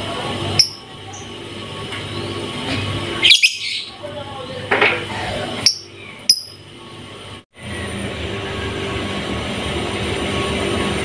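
A few short, sharp bird chirps and a quick rising call over a steady background rumble. The sound cuts out abruptly about seven and a half seconds in, and the steady rumble returns.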